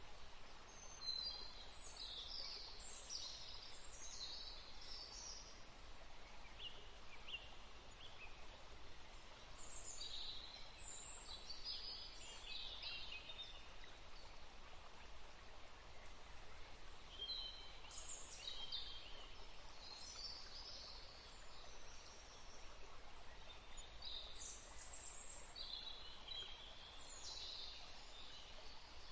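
Songbirds singing in short bursts of high chirps and trills, a new burst every several seconds, over a steady faint background hiss.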